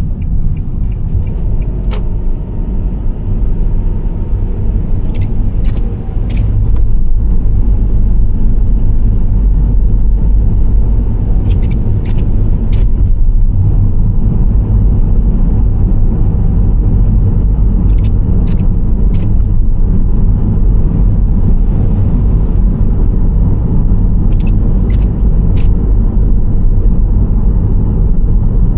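Nissan Serena C25 minivan driving at a steady speed: a continuous low road and engine rumble that grows a little louder about seven seconds in. Short sharp clicks come in quick groups of about three, roughly every six seconds.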